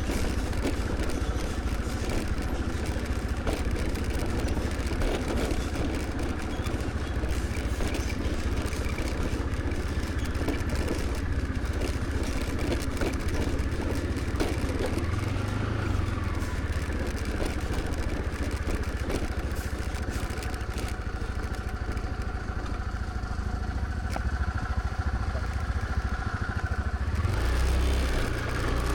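Scooter engine running steadily under way, with road and wind noise. Near the end the hiss in the upper range drops away while the low engine rumble carries on.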